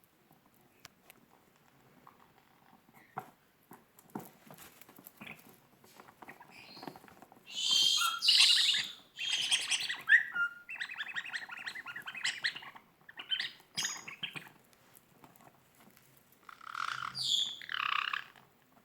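Rust-capped parrots (white-bellied caiques) squawking and squeaking as they play with a squeaky rubber duck. Soft taps and scratches come first, then loud shrill bursts about halfway in, a run of quick repeated squeaks, and another shrill burst near the end.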